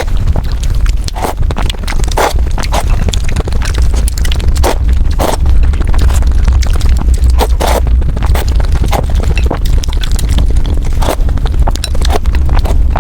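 Close-miked eating sounds from a bowl of spicy bún bò Huế noodle soup: irregular wet chewing, smacking and slurping noises with sharp little clicks, over a steady low rumble.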